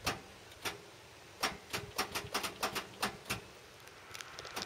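A string of sharp, irregular clicks, about a dozen, most of them bunched in the middle: an International 4300 delivery truck's starter clicking without the engine turning over, from poor battery cable connections.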